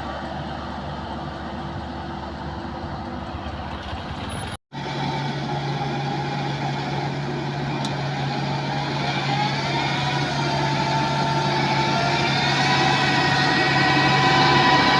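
Rice combine harvester (MCH 2000 PJ Star) engine running steadily. There is a brief dropout about four and a half seconds in, after which a steady hum carries on and grows gradually louder.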